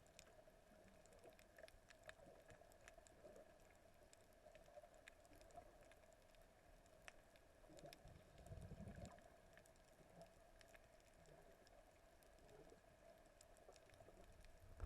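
Faint underwater reef ambience: scattered sharp clicks and crackle over a steady low hum, with a brief low rumble about eight seconds in.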